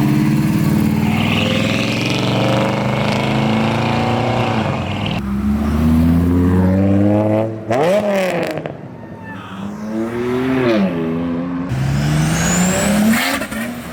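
Cars accelerating hard one after another, their engines revving and climbing in pitch, dropping back at each gear change before climbing again.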